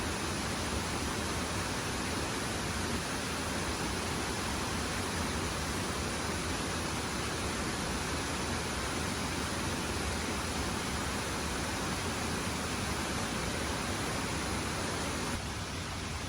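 Waterfall rushing: a steady, even hiss of falling water that drops a little in level near the end.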